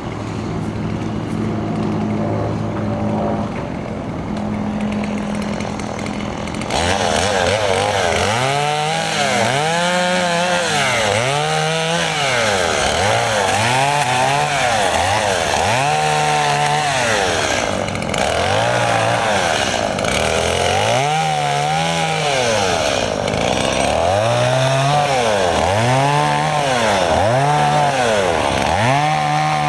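Stihl MS 170 two-stroke chainsaw idling, then from about seven seconds in revved up and down over and over, roughly once every second or two, as it cuts up a pile of fallen limbs.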